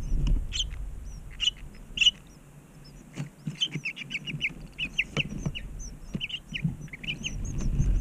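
House finch nestlings begging: quick runs of short, high chirps, a few single chirps at first, then rapid strings of them through the middle and again near the end, with thinner, higher calls joining in.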